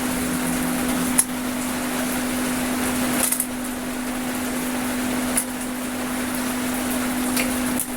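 Welding machine humming steadily under a broad hiss, with a few sharp clicks spread through.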